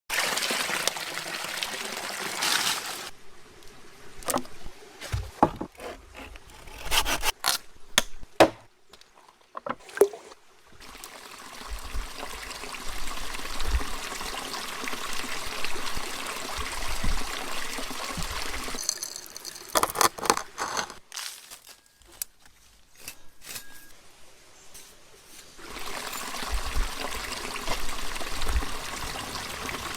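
Running, trickling water that stops and returns several times. Between the stretches of water come sharp clicks and knocks.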